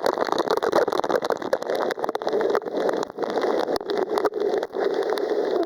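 Rushing water and a steady rumble with many crackles and knocks throughout: the noise of riding down a water slide.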